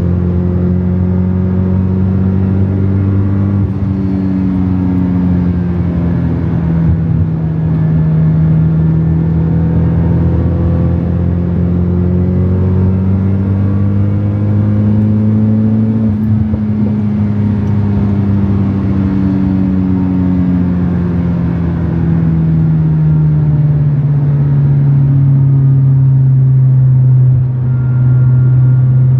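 Nissan S15 Silvia's four-cylinder engine running through its new custom Yashio Factory titanium exhaust. Its pitch slowly rises and falls with engine speed, and it drops to a lower steady note over the last few seconds.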